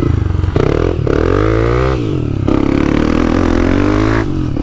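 Motorcycle engine revving as it pulls away: the pitch climbs over the first two seconds, eases off, then holds steady, with a brief dip near the end.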